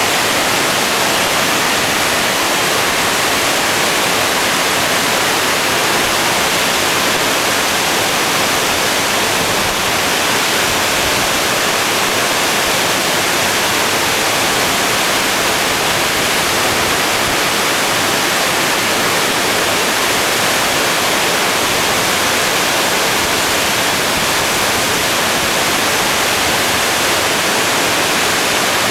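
Steady roar of rushing whitewater, an even hiss with no change throughout.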